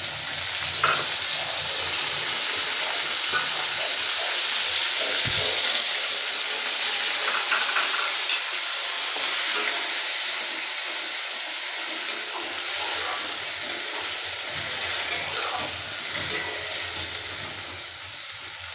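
Ginger, garlic and black pepper paste frying with browned onions in hot oil in a steel kadai, a loud steady sizzle, stirred with a spatula. The sizzle eases a little near the end.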